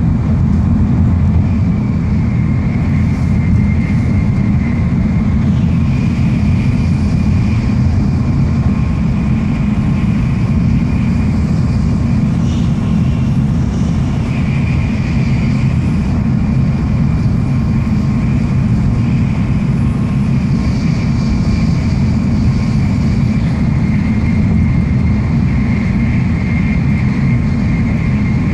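Running noise of an N700 series Shinkansen at speed, heard inside the passenger car: a steady low rumble with a faint high whine that swells and fades.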